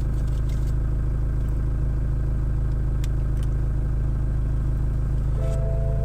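Steady low rumble of a running vehicle, unchanging throughout. A few held musical notes come in near the end.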